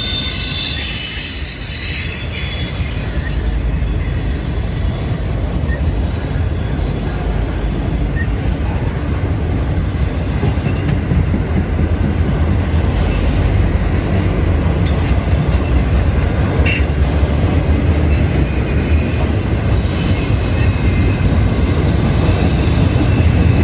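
A CSX freight train of autorack (car-carrier) cars rolling past with a steady low rumble. The steel wheels squeal at times, near the start and again during the last few seconds.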